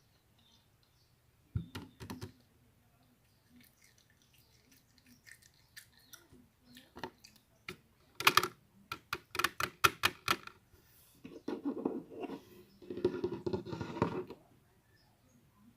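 Close-up handling sounds of small objects: a couple of sharp clicks, then a quick run of sharp taps, then a denser scratchy rattle near the end.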